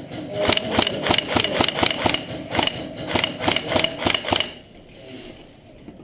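Airsoft gun firing a rapid string of evenly spaced shots for about four seconds, then stopping.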